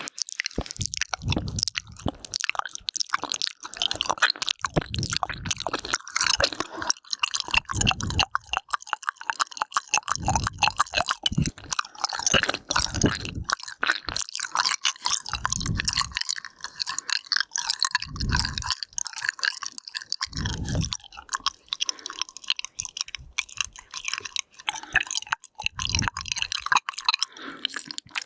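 Close-miked wet mouth sounds: a dense stream of tongue and lip clicks and smacks, with a soft low thump every few seconds.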